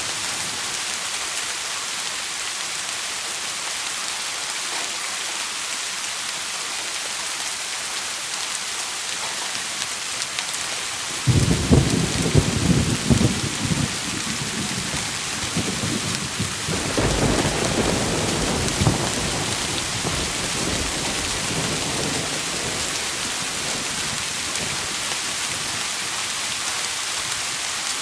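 Steady heavy rain with a thunderstorm. A sudden thunderclap about eleven seconds in rumbles for a few seconds, and a second roll of thunder follows a few seconds later and fades back into the rain.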